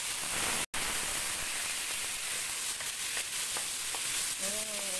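Fried garlic and cumin sizzling in hot oil with a little water added, stirred with a wooden spoon: a steady hiss with a few faint ticks. It cuts out briefly under a second in.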